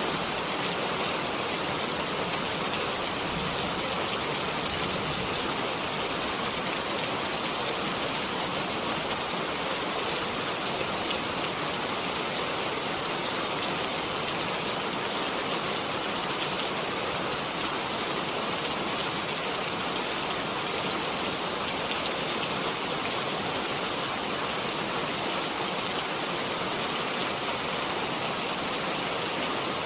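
Steady, heavy rainfall: an even hiss of rain with faint scattered drop ticks, unchanging throughout.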